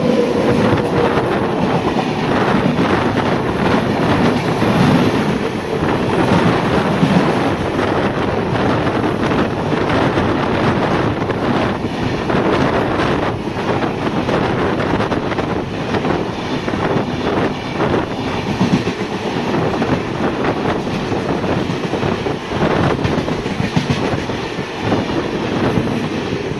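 Express train passing close by at high speed: a steady rush of wheels and coaches on the track, with rapid clicks as the wheels cross rail joints.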